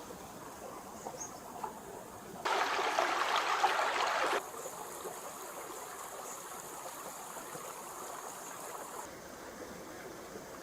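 Stream water flowing steadily. About two seconds in, a louder rush of water starts and stops abruptly, lasting about two seconds.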